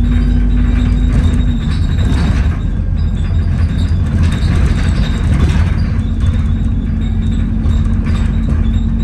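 Inside an Alexander Dennis Enviro400 double-decker bus on the move: a loud, steady low rumble from the drivetrain and axles, with rattling. Over it runs a steady droning whine, the bus's "hoover" noise, which drops out about a second and a half in and comes back about six seconds in.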